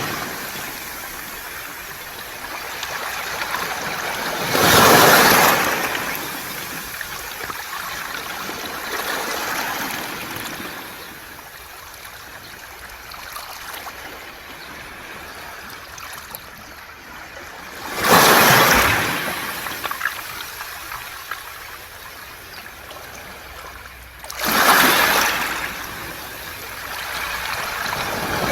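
Waves breaking on a beach of smooth, round pebbles: three surges about 5, 18 and 25 seconds in, each dying away into a long, quieter hissing wash of water and stones.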